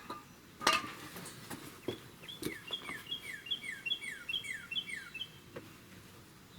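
A songbird singing a quick run of about eight repeated phrases, each a short high note with a falling slur, starting about two seconds in and lasting about three seconds. A sharp knock comes just before it, under a second in, with a few lighter clicks.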